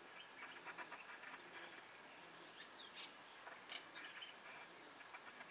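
Faint outdoor ambience with scattered bird chirps, the loudest a short call that rises and falls about two and a half seconds in.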